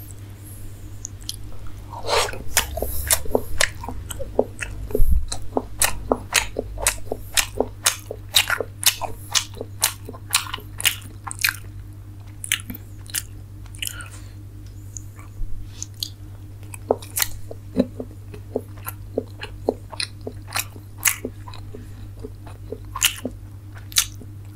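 Close-miked chewing of soft food (luchi with rasgulla, then a steamed chicken momo dipped in tomato sauce): a steady run of small sharp mouth clicks, about two or three a second. A faint low hum sits underneath.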